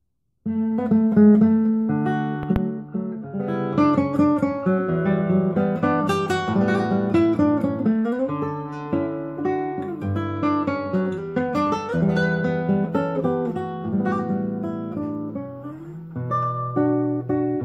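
Solo classical guitar improvising in a classical style, plucked single notes and chords, starting about half a second in.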